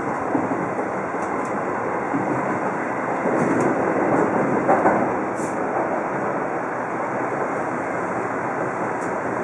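Seibu Shinjuku Line commuter train running on its rails as it pulls into a station, heard from just behind the driver's cab. A steady rumble with a few sharp wheel clicks, loudest about three to five seconds in.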